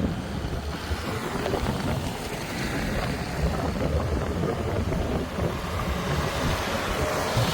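Tractor engine running steadily, with wind noise on the microphone.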